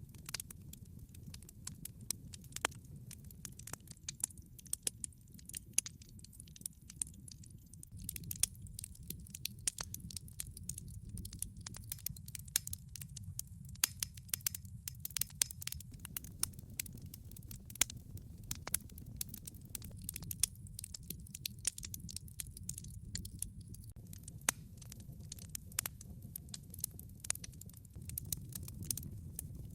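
Wood log fire crackling, with frequent irregular sharp pops and snaps over a steady low rumble.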